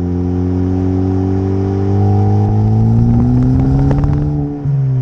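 Ford Focus ST's turbocharged four-cylinder through an MBRP cat-back exhaust, heard from inside the car. It pulls under acceleration, its pitch rising steadily, then drops away near the end at an upshift.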